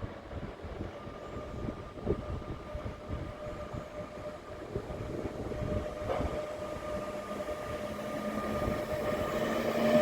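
A train approaching on the station tracks, its rail noise growing steadily louder, with steady humming tones that strengthen over the last few seconds.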